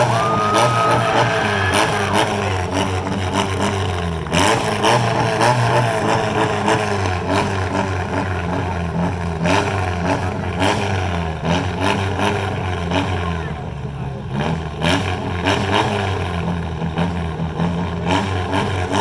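Four-cylinder demolition derby cars running and revving hard, engine pitch rising and falling, with several sharp bangs of metal impacts as the cars hit each other.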